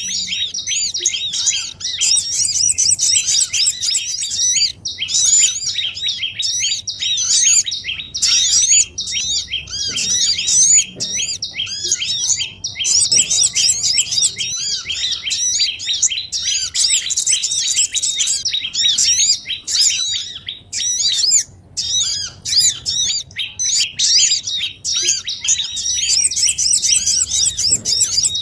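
Bird-lure recording of small songbirds: a dense, noisy chorus of many rapid, overlapping high chirps with only brief breaks, the kind of ruckus used to lure sunbirds, prinias and other small birds down to a trap.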